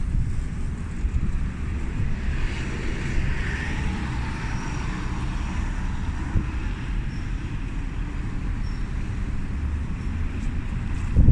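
Road traffic on a snowy city street: a steady low rumble, with a passing vehicle's tyre hiss swelling and fading between about two and five seconds in.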